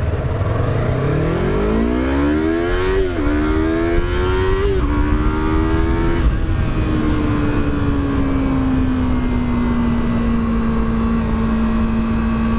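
2015 Yamaha R3's parallel-twin engine accelerating through three upshifts. The pitch climbs and drops at each shift, about three, five and six seconds in, then holds steady at cruise and eases slowly down, over low wind noise.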